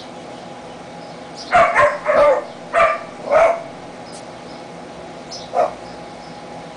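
Husky barking in short yips: a quick run of five about a second and a half in, then one more a couple of seconds later.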